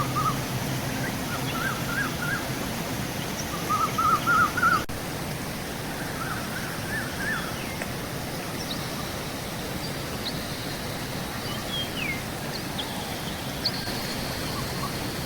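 Wild birds singing short, rapid chirping phrases over a steady rush of flowing river water, with a few thin, higher calls in the second half.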